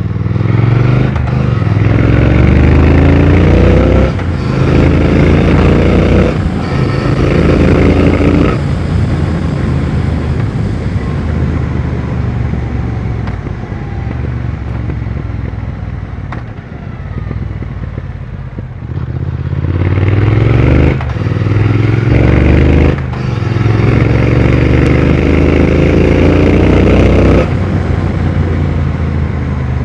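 2020 Triumph Speed Twin 1200's parallel-twin engine and exhaust under way, accelerating hard up through the gears: the engine note climbs and drops at each upshift three times, eases off to a quieter steady run, then climbs through three more upshifts near the end.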